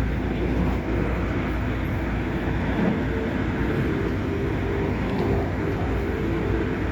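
Airport Express train running: a steady rumble with a constant humming tone.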